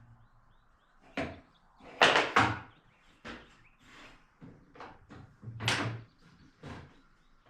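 Wood pieces and tools being handled and set down on a bench: a handful of short, sharp knocks and clunks, a cluster of them a couple of seconds in and another near the end.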